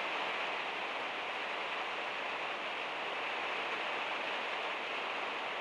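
Heavy rain falling steadily on a van's metal roof: an even hiss with no separate drops standing out.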